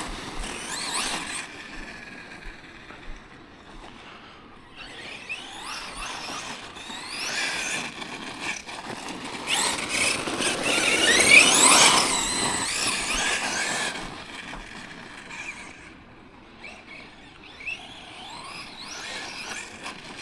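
Electric motor and drivetrain of a Tekno MT410 2.0 RC monster truck whining, the pitch rising and falling with the throttle. It is loudest about halfway through and fades for a while before picking up again near the end.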